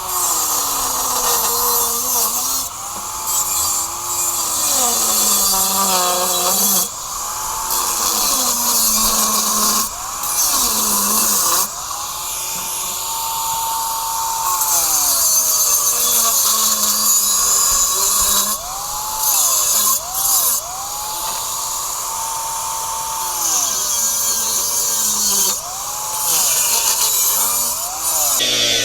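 Electric grinder cutting through welds on a steel exhaust pipe. The motor's pitch sinks as the disc is pressed into the metal and climbs back when it is eased off, with a harsh hiss of cutting over it. It stops briefly and starts again several times.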